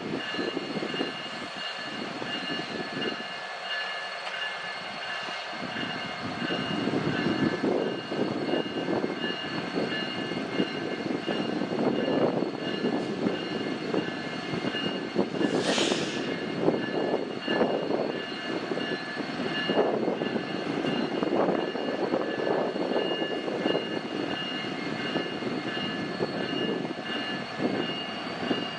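BNSF freight train's diesel locomotives running as the train gets under way, a rumble that builds from about six seconds in under a steady high-pitched whine. A brief hiss of air comes about halfway through.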